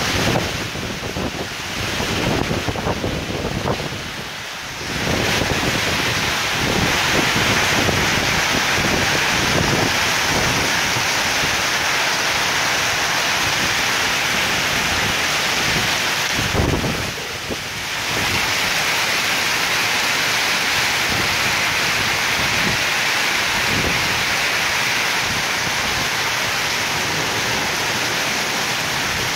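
Heavy rain pouring down in a storm, a steady loud hiss. Gusts of wind buffet the microphone with a low rumble for the first few seconds and again briefly a little past the middle.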